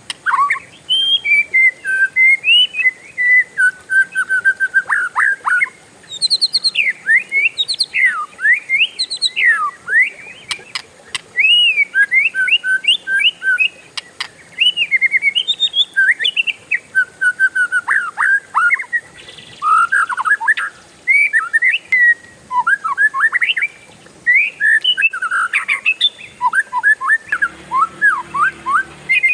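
Oriental magpie-robin singing a long, varied song of whistled notes and quick sliding phrases, nearly continuous with a few brief pauses.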